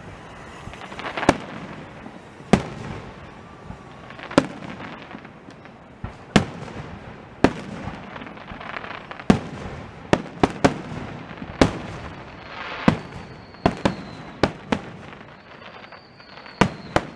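Aerial fireworks shells bursting overhead: a string of sharp bangs at irregular intervals, mostly a second or two apart and sometimes several in quick succession, each trailing off briefly. A faint high whistle comes in twice in the second half.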